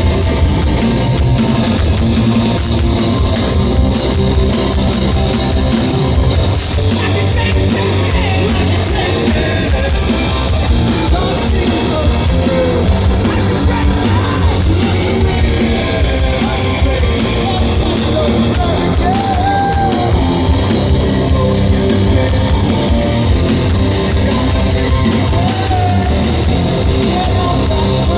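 Loud live hardcore band playing: distorted guitars, bass and pounding drums, with shouted vocals, heard through a crowd-recorded audience microphone.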